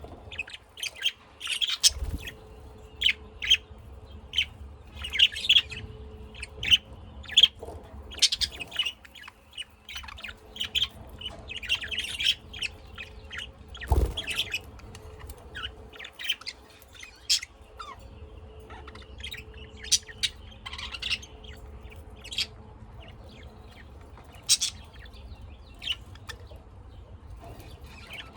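Pet lovebirds and budgerigars chirping in their cage, with many short, rapid chirps and calls. There are two dull thumps, one about two seconds in and one near the middle, over a faint steady hum.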